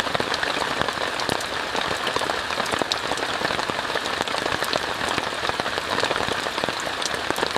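Steady rain on a tent, heard from inside, with many separate drops tapping the tent over a continuous hiss.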